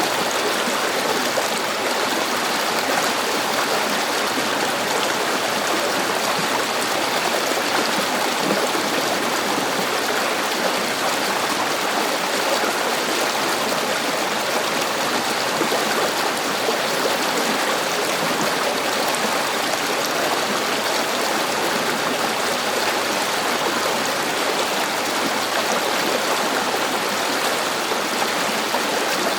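River water flowing steadily over rocks, a continuous even rush without breaks or changes.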